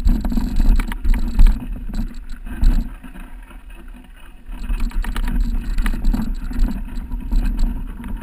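Mountain bike riding over a rough dirt trail: wind rumbling on the microphone, with rattling and knocks from the bike as it goes over bumps.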